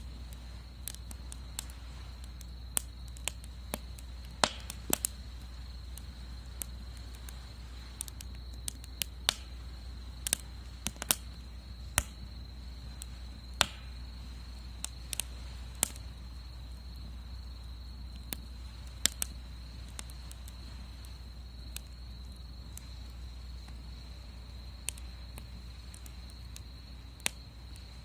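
Wood fire burning in a Solo Stove Bonfire fire pit, crackling with irregular sharp pops and snaps, over a steady high-pitched tone like an insect's.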